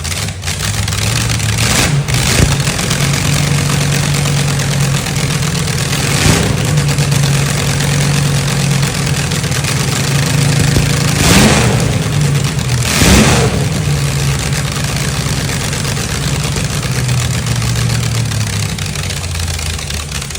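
Vehicle engine idling steadily after its final tune, with four quick throttle blips: about two seconds in, about six seconds in, and two close together past the middle.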